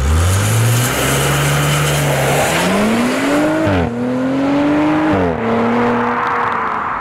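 Car engine accelerating hard, its pitch climbing and then dropping sharply at two gear changes, about halfway through and again about two-thirds of the way in, over a broad hiss.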